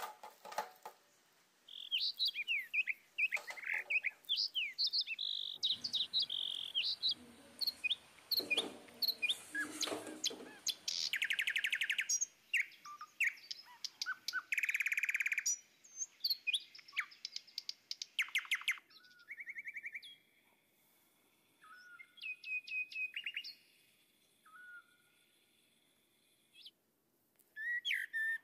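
Birds chirping and trilling: many quick high whistled chirps and rapid trills in clusters, broken by pauses, with longer quiet gaps in the last third.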